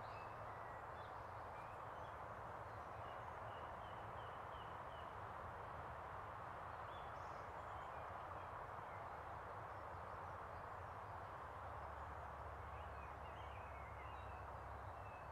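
Faint scattered bird chirps, with a quick run of them a few seconds in, over a steady outdoor hiss.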